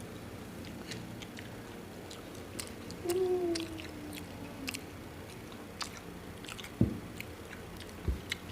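Sandwiches being chewed close to the microphone: soft wet chewing with many small mouth clicks and lip smacks. About three seconds in, a voice gives a short hum that falls in pitch, and near the end there are two dull thumps.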